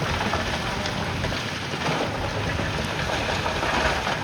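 Shantui bulldozer working, a steady noisy rumble of heavy machinery.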